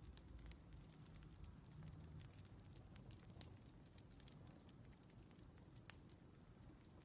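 Faint crackling of burning firewood: scattered small pops and snaps over a soft low rumble, with one louder pop near the end.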